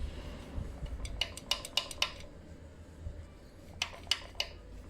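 Piston in an opened Jeep 4.0L high-output inline-six being rocked side to side in its bore, its skirt clacking against the cylinder wall in sharp metallic clicks: four quick ones about a second in and three more near the end. The excess skirt-to-bore clearance is the cause of the engine's piston slap.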